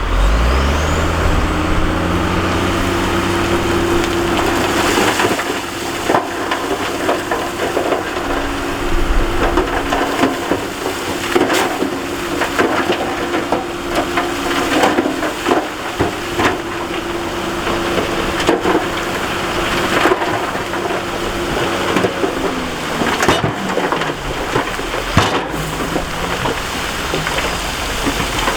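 Heavy diesel earthmoving machine revving up, then running steadily under load, with rock and gravel clattering and cracking throughout; several loud impacts stand out. The engine note drops a few seconds before the end.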